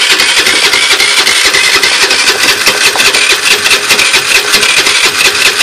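Roketa 50cc moped engine running loud and fast as the throttle is opened, giving only a little cough instead of picking up, while it spurts oil and smokes.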